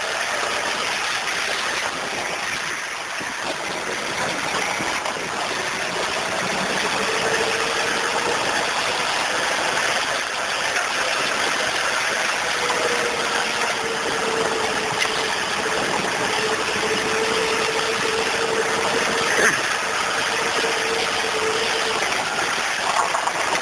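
Vehicle engine running steadily under a continuous rushing noise, with a held whine that comes in about seven seconds in and dies away near the end.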